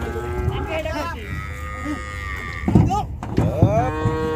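Cattle mooing: several long, drawn-out calls, one after another, with a couple of knocks between them.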